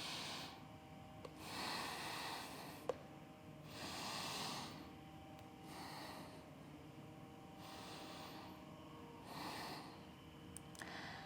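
Faint, slow breathing: about five audible breaths through the nose and mouth, each a soft rush of air about two seconds apart, while a strength pose is held. A single small click about three seconds in.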